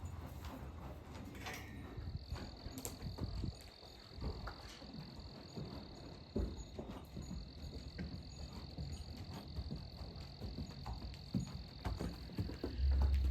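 Steady high-pitched insect trill, starting about two seconds in, with a brief break midway, over scattered light knocks and low rumble.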